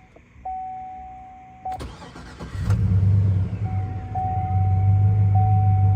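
A 2007 Chevrolet Avalanche's supercharged 6.0-litre V8 cranks briefly, catches about two and a half seconds in, and settles into a steady idle. A steady electronic warning chime tone sounds before the start and again over the idle.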